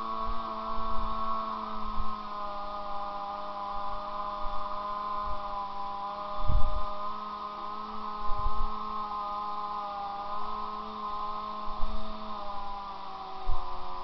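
Motorcycle engine held at steady revs during a burnout, a constant droning note, with low thumps now and then, the strongest about six and a half seconds in.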